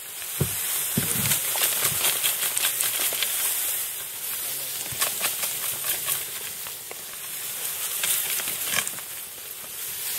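Wild rice being knocked into a boat: a steady rustle of stalks and grains with many light, irregular taps and clicks from the wooden knocking sticks.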